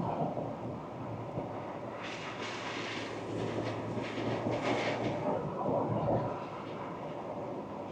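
Ford Ranger Wildtrak pickup on the move: a steady low engine drone under tyre and road noise, with a louder rushing hiss from about two to five seconds in.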